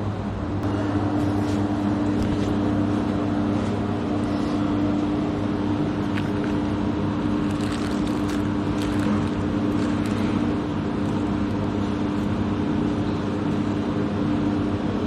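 A steady low motor hum, like an engine running at a constant speed, with a few faint clicks partway through.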